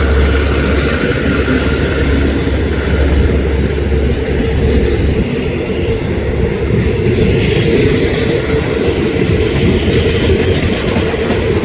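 Train running along the rails, its wheels clattering over the rail joints. A low drone under the clatter fades about five seconds in.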